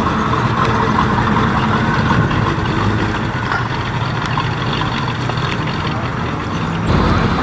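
A car engine idling steadily, with an abrupt shift in the sound near the end.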